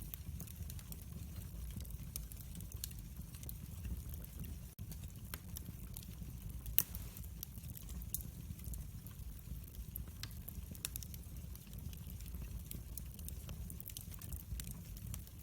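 Wood fire crackling in a fireplace, with frequent sharp pops over a low, steady rumble; one pop stands out about seven seconds in.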